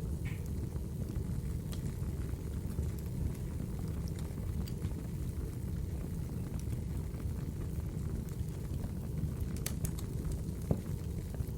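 Wood logs burning in a fireplace: a steady low roar of flame with scattered crackles and small pops, a few sharper pops near the end.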